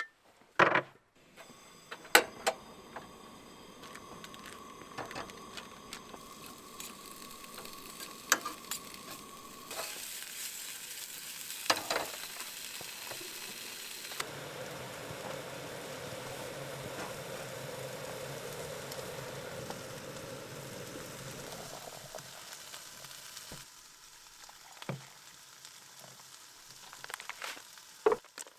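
Camp cooking on a small gas stove: a steady burner hiss, then chicken sausage sizzling and frying in a pan, with scattered clicks and knocks of cookware and utensils. The sound changes abruptly a few times.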